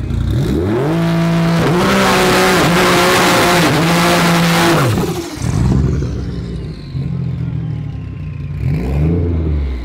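A car engine revving up hard and holding high revs, then dropping away about five seconds in. It runs on lower with a slowly falling whine, and revs briefly again near the end.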